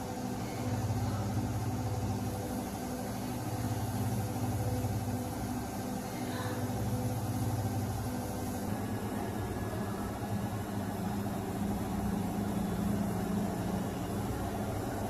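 Samsung 12 kg EcoBubble front-load washing machine running, a steady motor hum with a lighter hiss that drops away about nine seconds in.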